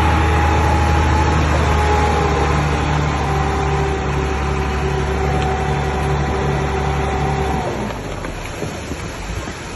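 Heavy earth-moving machine's diesel engine running steadily with a low drone; about three-quarters of the way in the steady engine tone cuts off suddenly, leaving a rougher, noisier rumble.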